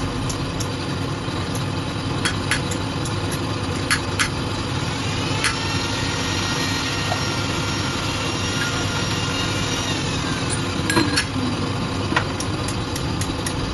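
Lathe running while cutting a disc brake rotor: a steady machine noise with scattered sharp metallic clicks, and a high ringing squeal of tool on metal from about five seconds in until about ten.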